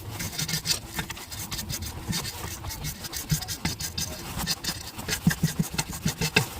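Wire brush scraping back and forth in quick, uneven strokes over the metal turbo mounting face, scrubbing off old silicone sealant to leave a clean, flat seat for the new turbo gasket.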